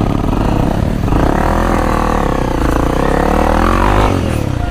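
Honda CRF250L's single-cylinder four-stroke engine revving hard under load on a hill climb, its pitch rising and falling with the throttle, easing off about four seconds in.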